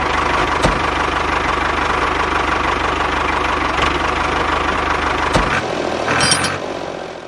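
A small engine running steadily with a low, even chug, falling away about five and a half seconds in.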